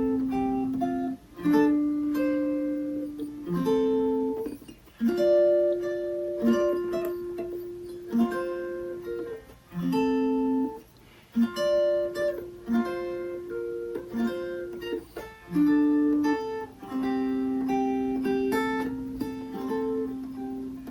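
Mountain dulcimer in CGc tuning playing an instrumental passage of the tune, with melody notes strummed and plucked in phrases a few seconds long.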